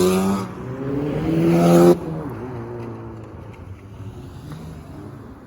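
A car engine is revved hard, its pitch climbing, dipping briefly and climbing again. The throttle is then released about two seconds in, and the engine falls back to a quieter, fading rumble.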